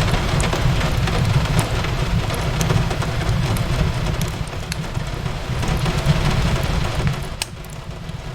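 Steady rain with a low rumble, and scattered sharp crackles and pops from a wood fire in a fireplace.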